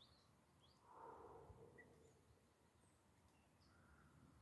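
Near silence with a few faint, short bird chirps and a soft breath about a second in.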